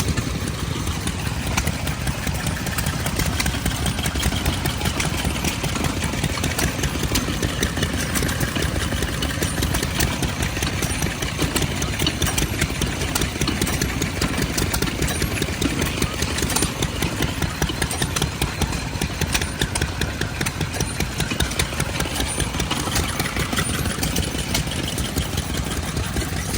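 Antique engine running steadily with a fast, even chugging beat.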